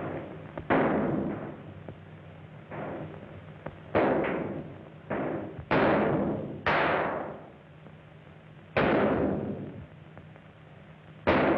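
A gunfight: about eight gunshots at uneven intervals, some louder and some fainter, each with a ringing echo that dies away over most of a second.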